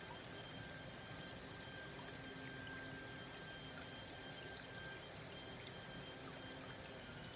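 Small woodland stream flowing gently, a soft, even babble of water, with a faint steady high tone running alongside it.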